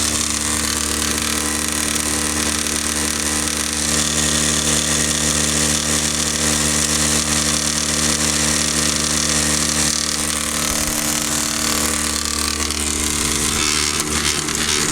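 Backcountry F2 Tornado electric non-air drywasher running steadily, a constant electric hum and buzz as dry dirt feeds through it.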